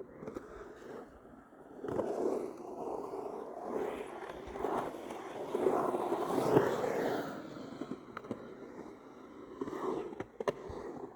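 Skateboard rolling and scraping, swelling louder for several seconds in the middle, with a few sharp clicks near the end.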